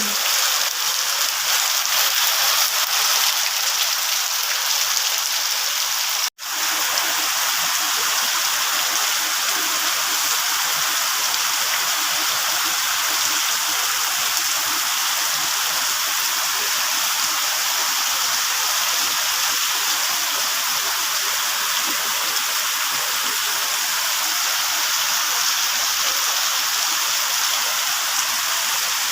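Steady rain falling, an even hiss of water, with a momentary cut-out about six seconds in.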